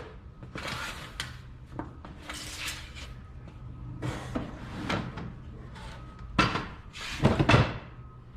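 Handling noises: a run of scrapes, rustles and light knocks, loudest near the end, over a faint steady low hum.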